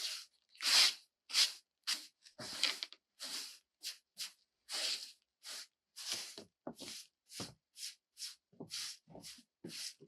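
A dog's quick, noisy breaths close by: a run of short hissing huffs, about two a second, with brief pauses between.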